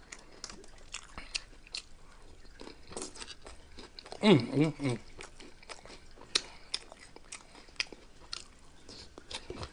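Close-miked crunching and chewing of Flaming Hot Cheetos nachos, with sharp crisp crunches scattered throughout. A short voiced murmur comes about four seconds in.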